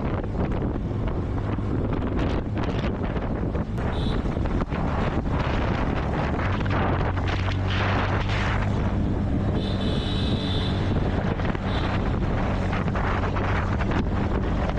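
Motorbike engine running steadily under heavy wind rush on the microphone, as heard while riding. A few short high beeps cut through, the longest about ten seconds in.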